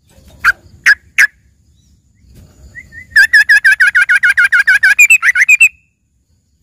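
Yellow-vented bulbul (trucukan) singing. It gives three sharp single notes in the first second or so, then a fast even run of repeated notes, about ten a second, for some two and a half seconds. It is a trained 'isian' song with phrases meant to sound like a greater green leafbird.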